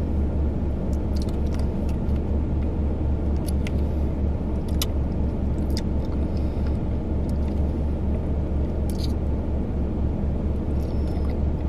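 Steady low rumble of a car engine idling, heard inside the cabin, with a few light clicks from a plastic drink cup and straw being handled.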